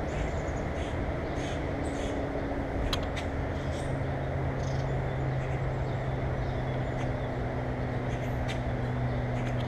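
Outdoor ambience at a bird feeder: a low, steady engine-like hum sets in about three and a half seconds in over a constant background hiss, with short high bird chirps scattered throughout.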